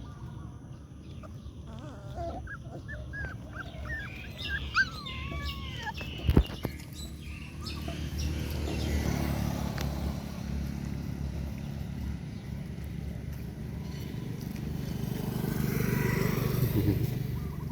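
Puppies squeaking and whimpering in a quick run of short, high, arching calls. About six seconds in there is a sharp knock, and then a steady rumbling noise that swells near the end.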